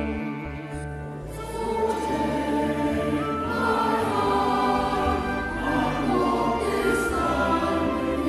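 A choir singing with several voices over a steady low accompaniment.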